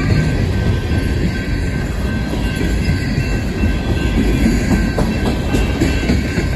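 Empty coal hopper cars of a freight train rolling past at speed, with a steady loud rumble and clatter of steel wheels on the rails.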